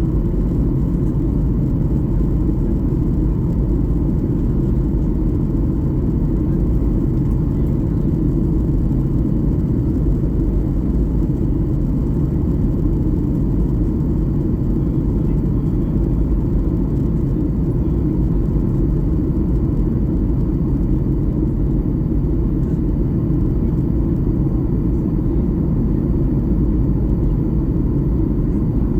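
Steady low rumble inside a Boeing 737 MAX-8 passenger cabin in flight: engine and airflow noise, even throughout with no distinct events.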